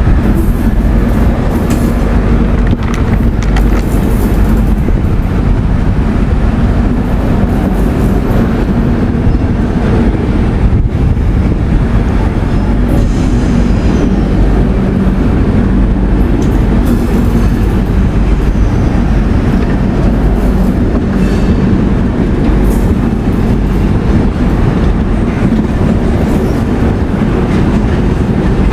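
Mumbai Rajdhani Express passenger coaches rolling out of the station, wheels clicking over the rail joints, with a steady low hum underneath.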